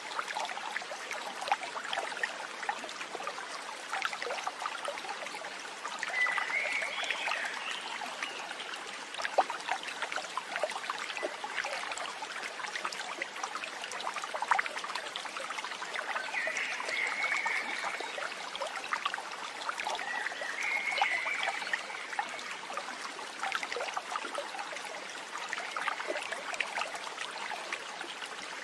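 A small stream trickling and babbling steadily over stones, with three short chirps heard about a quarter, three fifths and three quarters of the way through.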